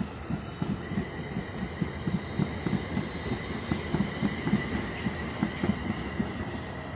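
A train running through a station, its wheels knocking rapidly over the rail joints, with a steady high-pitched wheel or brake squeal from about a second in.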